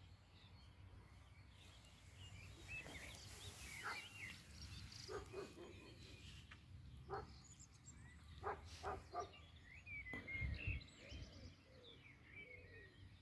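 Faint birds chirping in the background, with a few short soft rustles close to the microphone between about five and nine seconds in.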